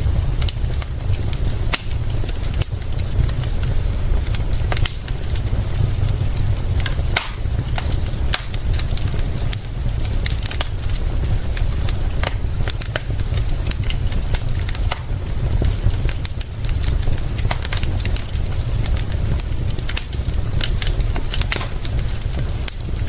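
Fire crackling with frequent sharp pops scattered irregularly throughout, over a steady low rumble and a soft even hiss.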